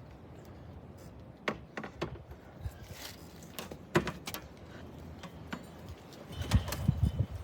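Scattered light clinks and knocks from handling metal mounting brackets, bolts and tools, then a short run of low thumps near the end.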